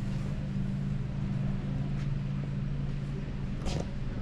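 A steady low hum, with a sharp click about three and a half seconds in.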